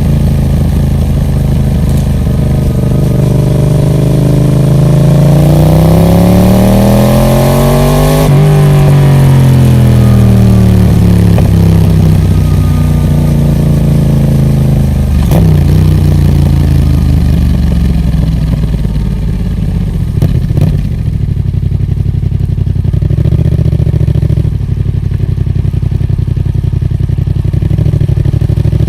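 Yamaha MT-07's parallel-twin engine through a Roadsitalia Special Carbon aftermarket exhaust. The revs climb steadily for about four seconds, then fall back over the next several seconds and settle into a steady lower run, with a couple of sharp clicks along the way.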